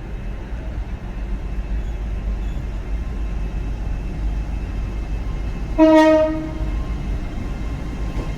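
Steady low rumble of a train, with a train horn sounding one short note of about a second, about six seconds in.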